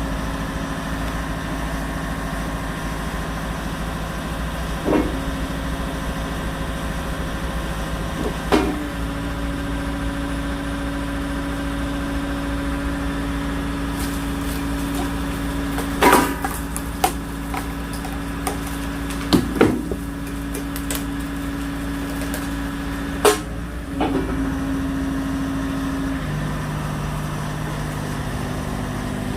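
Engine running steadily to drive a hydraulic log splitter, broken by several sharp cracks and knocks as dry firewood logs are split and the pieces drop. The engine note changes about four seconds before the end.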